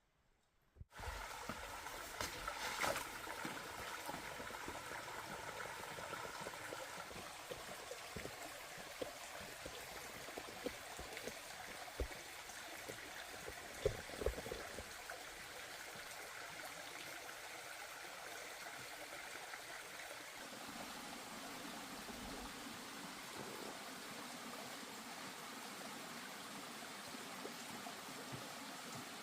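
Water running steadily, like a small stream, with a few sharp knocks partway through.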